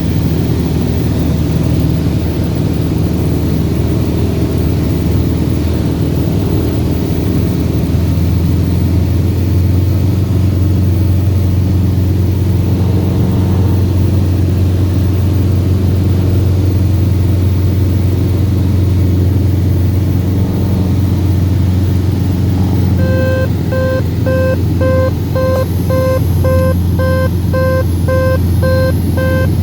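Cessna 172RG's piston engine and propeller running steadily, with the low drone growing stronger about eight seconds in. Near the end an intermittent cockpit warning tone starts beeping about twice a second over the engine.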